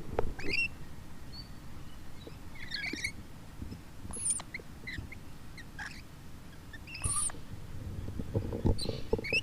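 Lorikeets giving short, separate calls every second or two, some high and thin, over a faint outdoor background.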